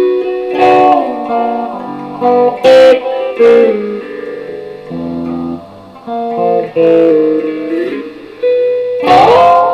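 Electric guitar played as single notes and short melodic runs, with several sharp picked accents and a sliding rise in pitch near the end.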